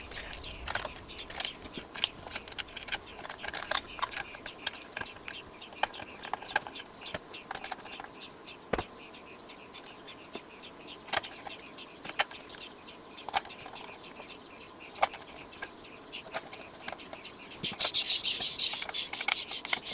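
The inside of a Crown I-Tech 5000HD amplifier's metal chassis being scrubbed clean, with scattered scratchy scrapes and sharp taps. Near the end comes a run of fast, brisk scrubbing strokes.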